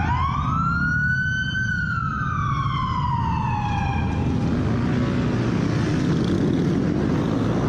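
Police siren wailing: one rise in pitch over about a second and a half, then a slow fall that fades out about four seconds in, over a steady low rumble of vehicle and road noise.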